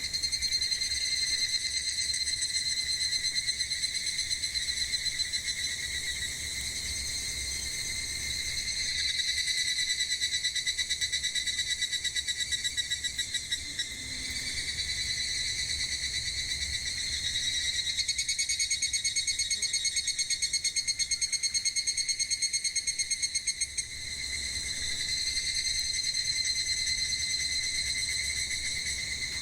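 Cicadas singing: a high, rapidly pulsing trill that swells and fades in phrases several seconds long.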